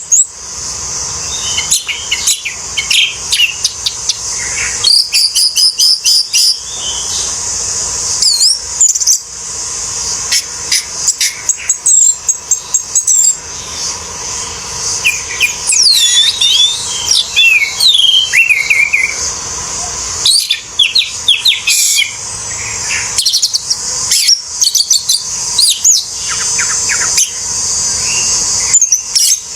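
Orange-headed thrush singing a long, varied song of rapid whistled and warbled phrases, delivered in bursts with short pauses, over a steady high hiss.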